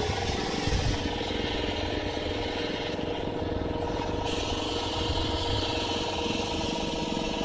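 An engine or motor running steadily with an even hum.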